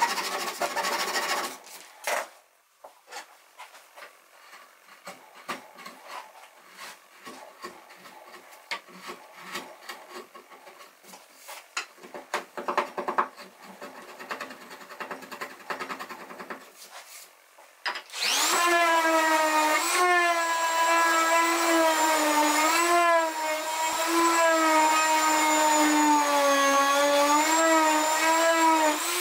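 Workshop sounds of woodworking: a stretch of light clicks, knocks and scraping, then about two-thirds of the way in an electric power tool's motor starts and runs steadily, its pitch wavering slightly as it works.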